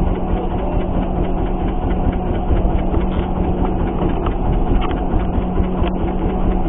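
Boat engine running steadily at low revs, a constant low hum and rumble, with a few faint clicks.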